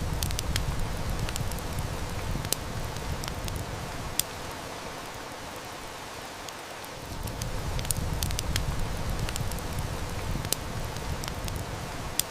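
Steady heavy rain hiss with wood fire crackling and snapping in sharp, scattered pops. A low rumble rises under it twice, for the first few seconds and again from about the middle to near the end.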